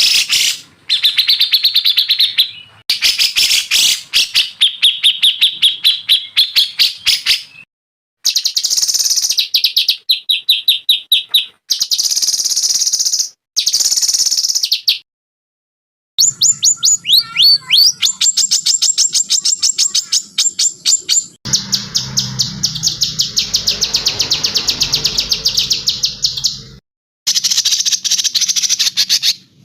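Caged songbirds singing fast trills of quickly repeated high notes, in a series of separate recordings that each cut off abruptly into a short silence.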